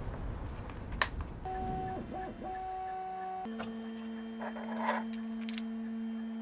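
3D printer's stepper motors whining as the print head moves, in steady tones that drop to a lower pitch about halfway through and cut off suddenly at the end. A single click comes about a second in.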